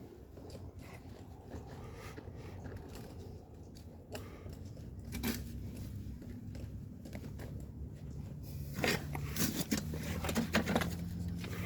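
Scattered clicks, crinkles and light knocks of objects being handled, growing busier near the end, with a low steady hum coming up under them.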